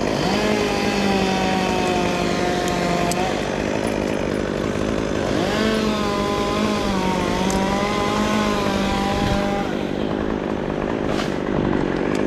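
Gas chainsaw run up to full throttle twice, about three seconds and then about four seconds, easing back between the runs.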